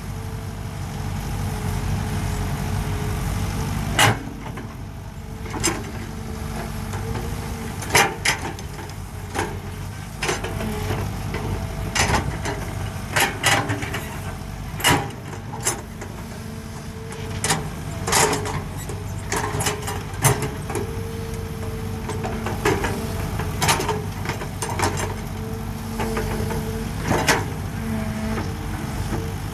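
Excavator diesel engine running steadily, with frequent sharp clanks and knocks of the machine at work.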